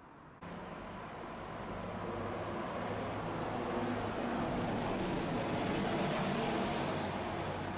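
Tosaden streetcar running on its tracks. The running noise starts abruptly about half a second in, grows louder over the next few seconds and then holds steady, with a low hum underneath.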